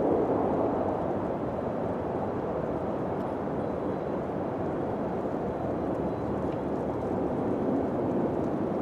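Steady low wind, swelling in a gust at the start and again near the end.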